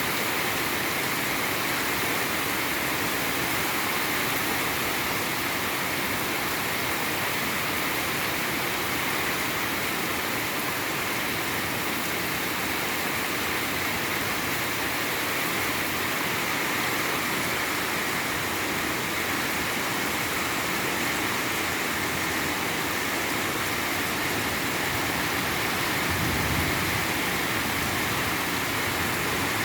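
Steady rain falling in a continuous even hiss. A brief low rumble comes in near the end.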